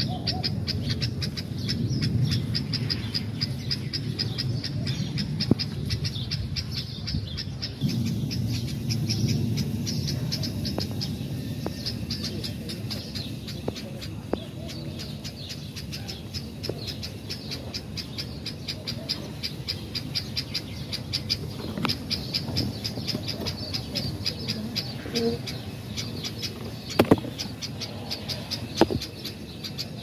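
Birds calling: a fast, high chirping repeated several times a second throughout, over a low wind rumble on the microphone that is heaviest in the first several seconds. A few sharp clicks come near the end.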